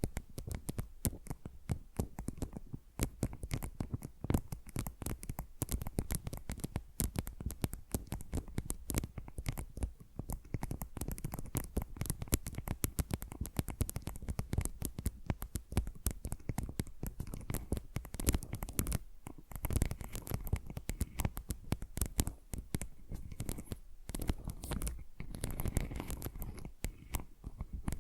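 Fingernails scratching and tapping in fast, dense strokes, a close-miked stream of rapid clicks and scrapes.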